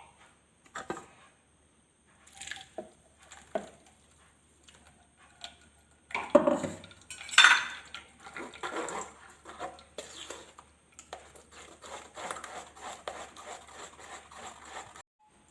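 Blended curry gravy being pushed through a strainer: a utensil scraping and clinking against the strainer, with scattered knocks early on and a run of steady, rapid scraping in the last few seconds.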